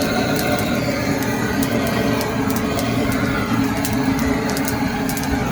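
Very dry firewood burning briskly in a cauldron's firebox: a steady rushing noise of the flames with frequent sharp crackles and pops as the wood splits.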